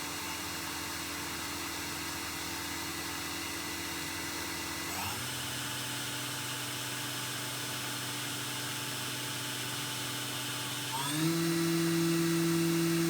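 Milling spindle of a Mazak INTEGREX 400-IV multitasking CNC lathe running under test with a steady whine. Its speed steps up twice, about five seconds in and again near the end, and it gets louder after the second step.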